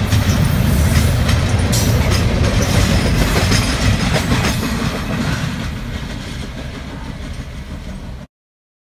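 Double-stack intermodal freight train's loaded well cars rolling past: a loud, steady low rumble of steel wheels with scattered clacks over the rail joints. It eases off over the second half and cuts off suddenly near the end.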